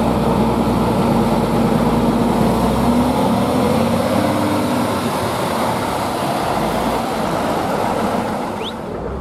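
Heavy truck engine running loudly with a dense mechanical noise, easing off a little near the end.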